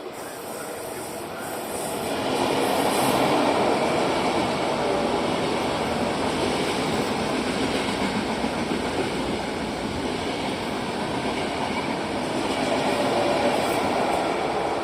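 Train running past on the rails: a steady rushing rumble of wheels and running gear that swells about two seconds in and stays loud, with a faint whine over it.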